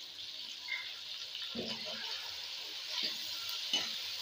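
Onion, tomato and green chilli masala sizzling in oil in a steel kadai, stirred with a metal slotted spoon that knocks against the pan a few times.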